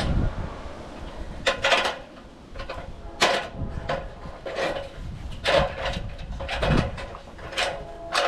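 A run of short scraping scuffs, about one or two a second and uneven in spacing.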